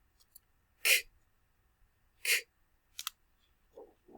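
Two short, breathy bursts of a person's breath, like sharp puffs or sniffs, about a second and a half apart, followed by a pair of quick clicks.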